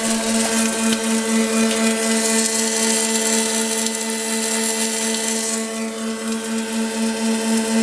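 Double-head circular seam welding machine running: a steady, slightly pulsing hum, with a high hiss from the welding above it that fades about five and a half seconds in.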